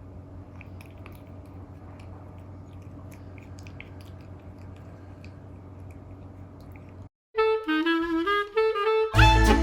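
A British Shorthair cat chewing shredded daikon sashimi garnish, faint crunchy clicks over a steady low hum. About seven seconds in the sound cuts out briefly, then jazzy background music with saxophone starts and grows louder.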